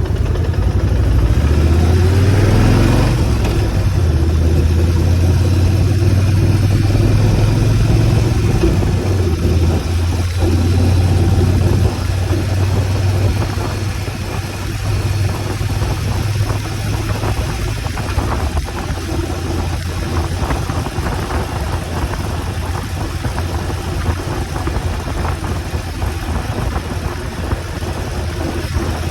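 2008 Kawasaki motorcycle engine running, its revs climbing about two seconds in, then settling into a steady drone that eases a little about halfway through.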